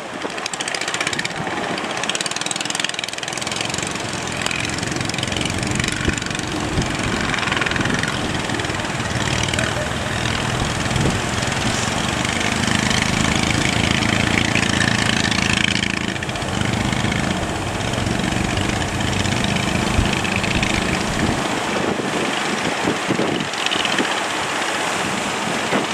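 Fishing boat engine running steadily, mixed with the noise of surf and wind.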